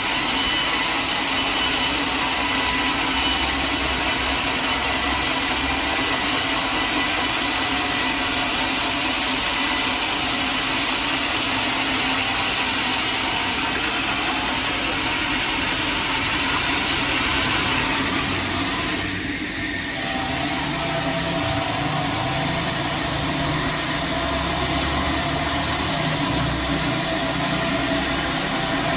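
Sawmill saw cutting lengthwise through a large log, a steady dense whine with high ringing tones. About two-thirds of the way through the cutting sound drops away briefly and a lower, steadier machine running sound carries on.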